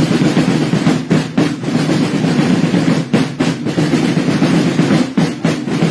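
A corps of drums playing a continuous roll, with paired heavier strokes about every two seconds.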